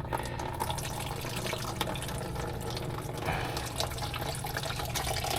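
Water running steadily out of a Speed Queen washing machine's opened drain into a container: the tub is still holding water because of a blockage in the drain, which the owner feels inside it.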